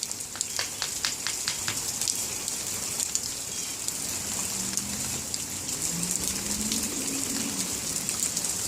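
Light rain falling, a steady hiss with many separate drops ticking, thickest in the first two seconds.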